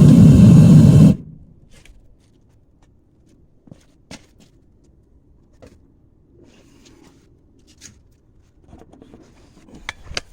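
Propane forge burner roaring, then cut off abruptly about a second in. Faint clinks and scrapes follow as slag is scooped off the molten aluminum.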